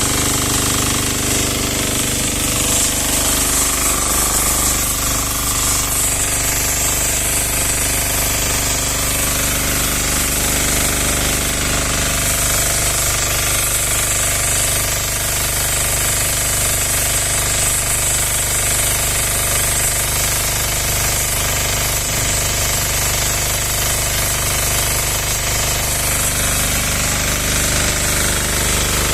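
Diesel-engined pressure washer (Lutian 10 hp) running steadily: a hard, knocking engine note under a constant high hiss.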